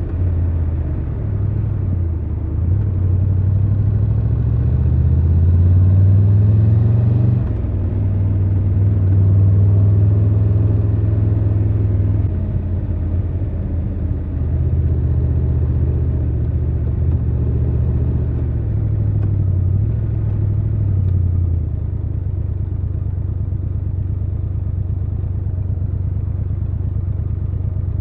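Triumph Tiger 1200 Rally Pro's three-cylinder engine running under way, its note rising through the revs over several seconds, dropping at a gear change or throttle-off, then holding steady and shifting again as the bike rides on.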